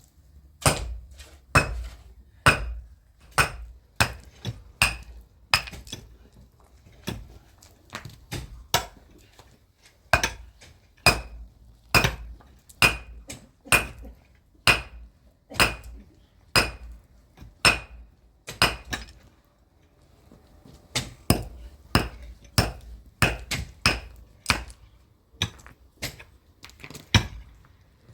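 A hammer striking a steel chisel again and again, sharp ringing blows at about one and a half a second with a short break about two-thirds through: cutting channels into the wall for the plumbing pipes.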